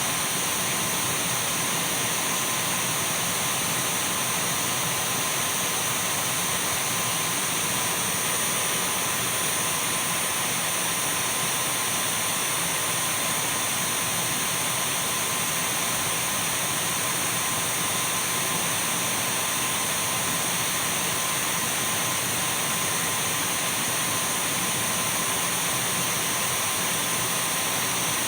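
Dyson V12 cordless stick vacuum cleaner running steadily: an even rush of air with a thin, constant high whine that does not change.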